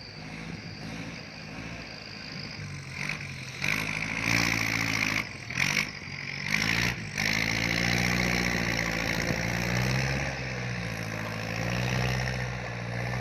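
Kubota L4708 tractor's diesel engine working under load while pushing soil, its pitch rising and falling as it revs. About four seconds in there is a louder spell with a rattling hiss, which breaks off briefly twice.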